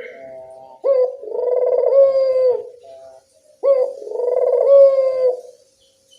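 Local puter (ringneck) dove cooing: two long rolling coos a little under two seconds each, each opening with a sharp rising note and ending on a held note.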